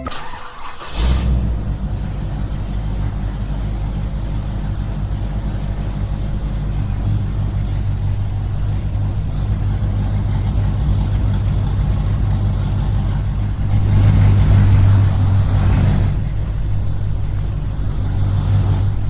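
Small engine running steadily. It starts abruptly about a second in and grows louder for a couple of seconds near the end.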